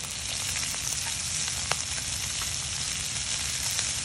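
Squid cakes frying in oil on a grill pan: a steady sizzle with scattered crackling pops, one sharper pop just under two seconds in.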